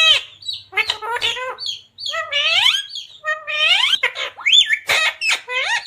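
Parrot calling: a run of loud, harsh calls, several rising steeply in pitch, with short high chirps in between.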